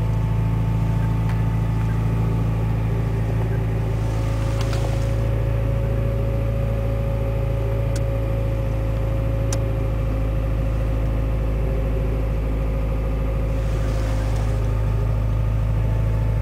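Turbocharged four-cylinder engine of a 1991 Honda Accord coupe idling steadily, with a couple of faint clicks midway.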